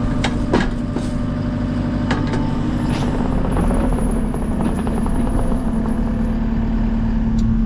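JCB Teleskid 3TS-8T's diesel engine running steadily, with a few short knocks and clanks over it.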